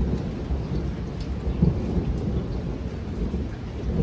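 Thunder in a sudden late-summer downpour, a low rolling rumble that slowly eases off, over the steady hiss of rain.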